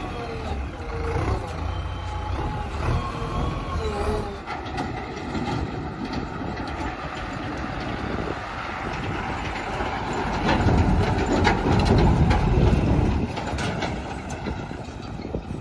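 JCB backhoe loader's diesel engine running as the machine moves. It gets louder about two-thirds of the way through, with a stretch of clanking.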